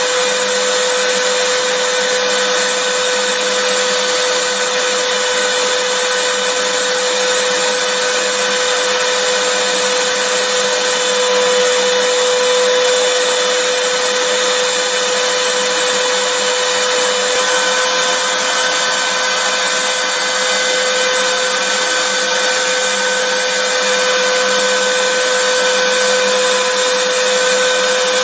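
Vacuum cleaner running steadily: a constant rushing hiss with a steady motor whine, used as white noise.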